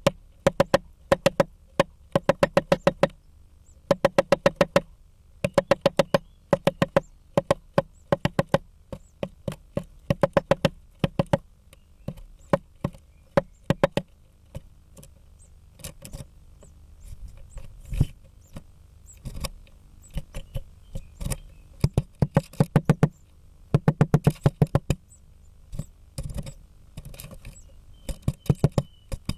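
Female great spotted woodpecker pecking hard at a wooden blue tit nest box, bursts of rapid knocks several a second, sparser and quieter taps in the middle, then fast bursts again.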